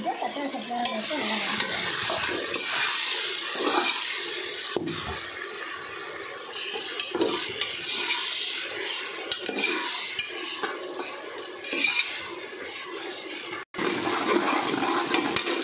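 Onions, herbs, green chillies and garlic paste sizzling in hot oil and ghee in a steel pressure cooker. A steel ladle stirs and scrapes the pot over and over to sauté them.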